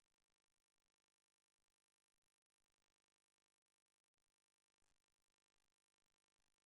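Near silence: only a faint, even noise floor.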